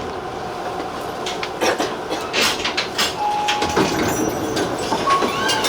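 Tobu 50090-series TJ Liner train running slowly into a terminal platform, with irregular clicks and knocks from the wheels and rails and two brief thin squeals in the second half, one of them bending in pitch.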